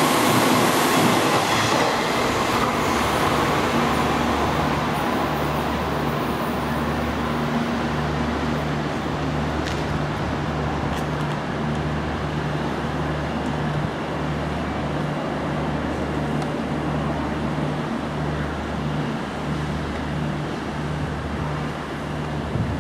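A Hanshin Railway electric train running past a station platform, loudest at the start and fading over the first few seconds. A steady rumble with a low pulsing about once a second carries on after it.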